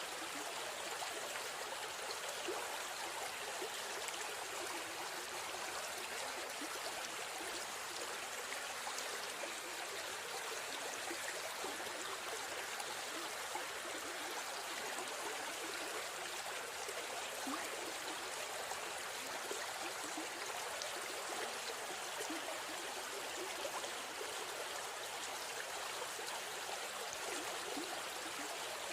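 River stream flowing: a steady rush of water with small splashing trickles.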